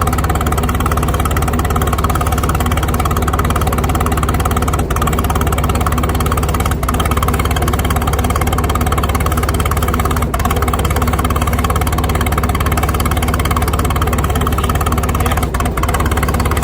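Antique tractor engine running steadily at an even speed, with a few brief dips in the sound.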